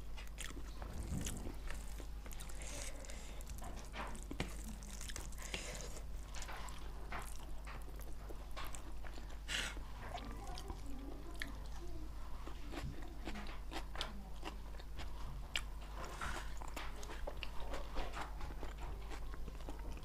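A person chewing and eating spicy chicken and rice by hand, with many small wet clicks and crunches of chewing, over a steady low hum.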